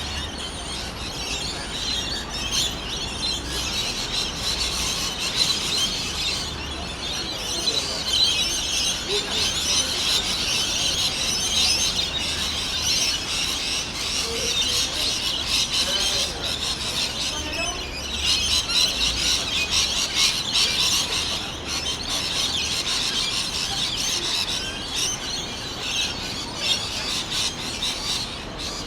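A dense chorus of many birds chirping and calling at once, high-pitched and continuous, with a couple of brief lulls.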